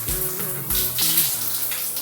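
Shower water running steadily, a hiss of spray while hair is rinsed, under background music that fades out near the end.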